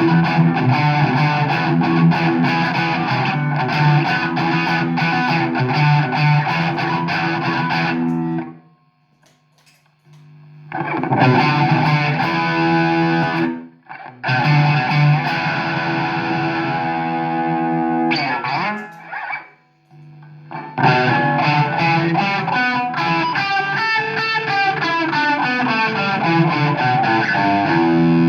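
Overdriven electric guitar played through a Marshall AFD100 valve amp head, chugging rock riffs with a heavy distorted crunch. The playing stops for about two seconds a third of the way in, breaks briefly twice more, then resumes.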